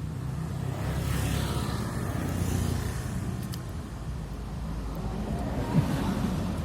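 A motor vehicle engine running steadily, with a swell of road or passing noise in the first few seconds and a single short tick near the end.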